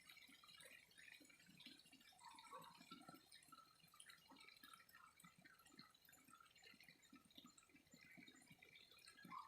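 Faint trickling and dripping of flowing water, a steady run of small gurgles, with one brief louder blip near the end.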